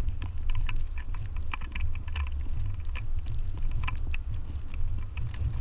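Footsteps crunching in snow, a quick run of short crackles, over a steady low rumble of wind buffeting the microphone.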